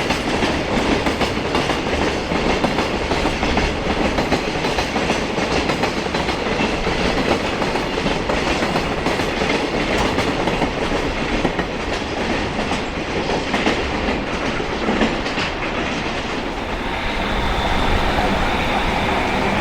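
Container freight train passing at speed, its wagons' wheels clattering steadily over the rail joints. About seventeen seconds in, a steady tone rises through the noise.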